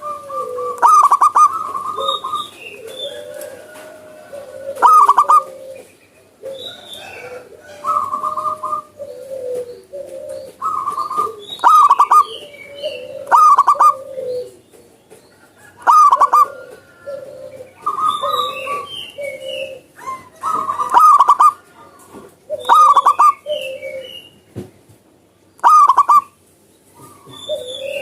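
Zebra dove (perkutut) cooing: loud short phrases of quick stuttering coos repeated every one to three seconds. Faint high chirps from a small bird fall between the phrases.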